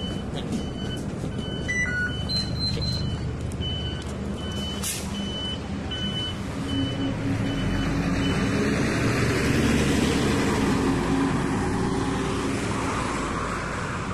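City bus engine running, with a series of short high electronic beeps in the first half; from about eight seconds in the engine grows louder as the bus pulls away.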